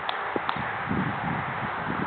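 Wind buffeting the microphone in uneven low gusts over a steady hiss, with two faint clicks about half a second apart near the start.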